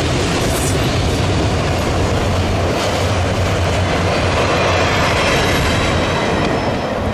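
Train passing close by, a loud steady rumble and clatter of its wheels on the rails.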